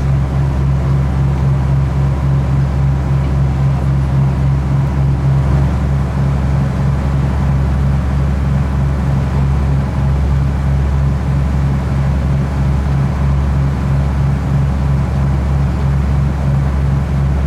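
Ship's engine drone: a loud, steady low rumble with a fast, even throb.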